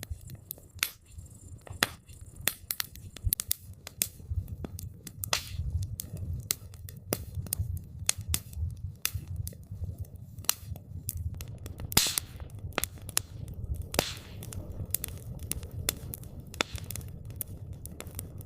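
Wood campfire crackling: irregular snaps and pops over a low steady rumble of the fire, with a few longer hissing pops.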